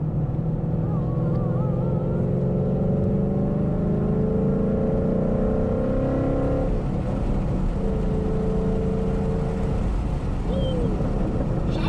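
A car engine running, its pitch climbing gradually over several seconds and breaking off about two-thirds of the way through.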